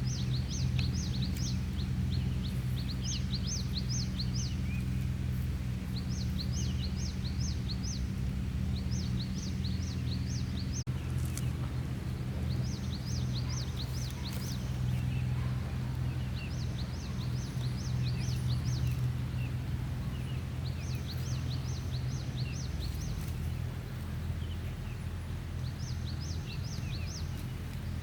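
A songbird repeating a short phrase of quick high chirps every two or three seconds, over a steady low hum.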